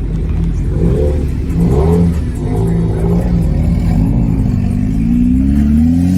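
A modified car's engine and exhaust running loud with a deep rumble, revved up and down, then climbing in pitch over the last couple of seconds.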